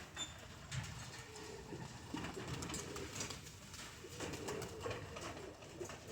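Domestic pigeons cooing softly, low wavering calls that come and go, with a few faint clicks among them.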